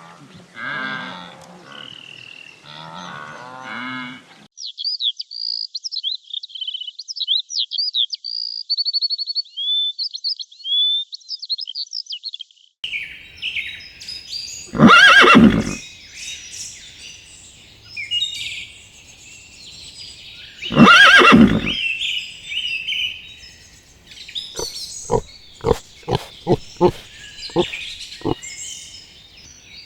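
A string of farm-animal sounds. Pitched calls for the first few seconds give way to high, quick chirping, then come two very loud calls about six seconds apart, and near the end a run of short, evenly spaced sounds about two a second.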